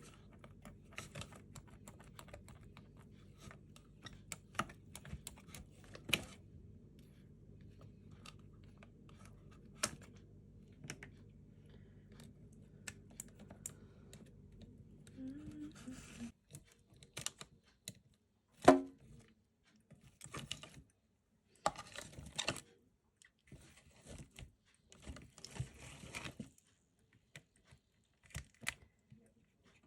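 Hands pulling the strips off a raw crab: scattered small clicks, cracks and short tearing sounds, with one sharp crack about two-thirds of the way through. A faint steady hum underneath stops a little past halfway.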